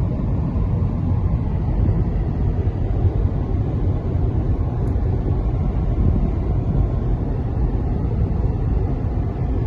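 Steady low rumble of a car driving along, heard from inside the cabin: tyre, engine and wind noise.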